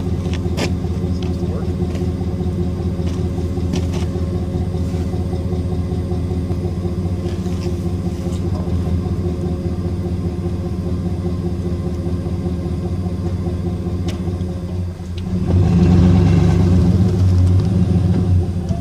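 Snow-plowing vehicle's engine running at a steady pitch, growing louder and rougher after a brief dip about fifteen seconds in.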